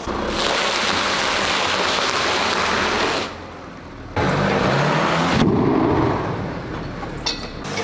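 A car's tyres rolling over objects and crushing them: a dense crackling rush of noise over a low engine rumble. It drops away abruptly about three seconds in and comes back loud a second later.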